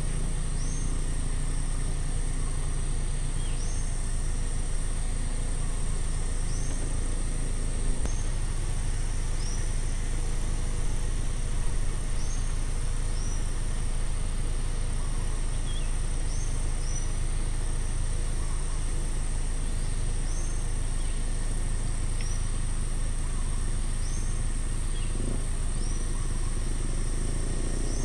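Outdoor ambience: a steady high-pitched insect drone with short, high chirps repeating every second or two, over a steady low rumble.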